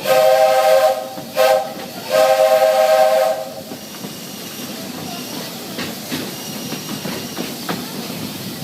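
Steam locomotive chime whistle blowing a chord of several steady notes in three blasts, long, short, long, which completes the long-long-short-long crossing signal. After the whistle stops, the train runs on with a steady rolling noise and scattered clicks from the rails.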